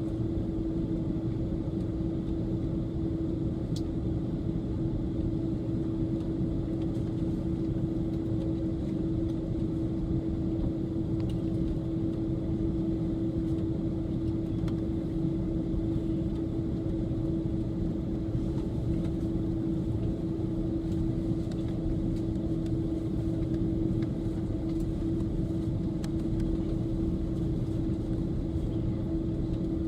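Steady airliner cabin noise inside an Airbus A330: the jet engines' low rumble with a constant hum held on one pitch, unchanging throughout.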